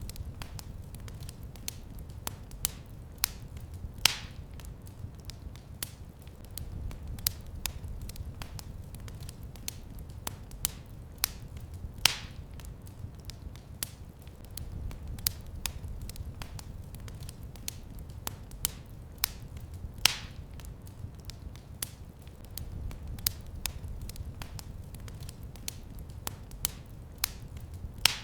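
Wood fire in a fireplace crackling steadily over a low rumble, with a few louder pops about eight seconds apart.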